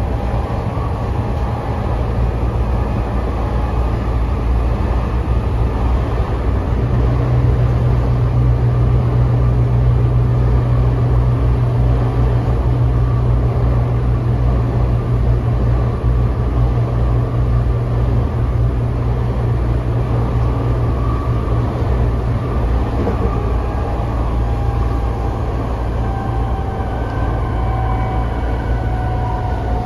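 A Tokyo Metro 05 series train running, heard from inside the passenger car: a steady rumble of wheels on rail, with a deep drone that swells about seven seconds in. A faint whine falls slowly in pitch over the last few seconds.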